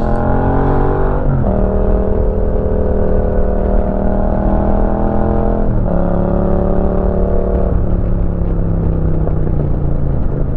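Yamaha MT-07's 689 cc parallel-twin engine through a Roadsitalia aftermarket exhaust, pulling hard under acceleration with two upshifts, about a second in and again about six seconds in. Near eight seconds the throttle eases off and the engine runs on at a steadier, lower note.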